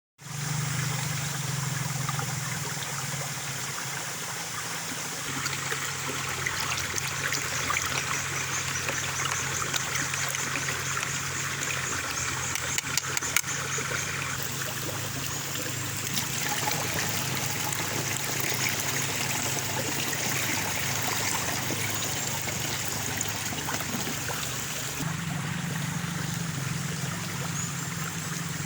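Water running and trickling steadily, with a low steady hum underneath.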